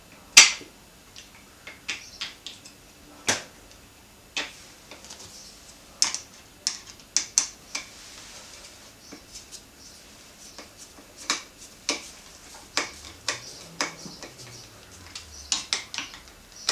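Irregular sharp clicks and taps of screws and a Phillips screwdriver on a two-part handlebar clamp mount as its halves are screwed together, the loudest about half a second in.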